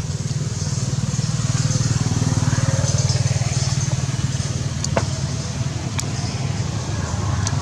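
An engine running steadily with a low, pulsing hum, with a few sharp clicks over it in the second half.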